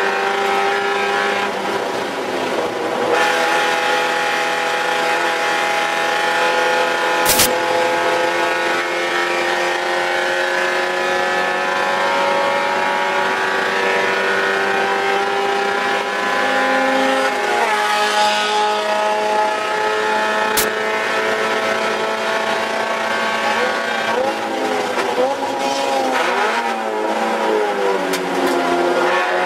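Mazda Spec Miata's four-cylinder race engine at full throttle, heard inside the cabin: long pulls with the pitch climbing steadily, a drop about halfway through, then revs rising and falling through braking and downshifts near the end. A single sharp click sounds about seven seconds in.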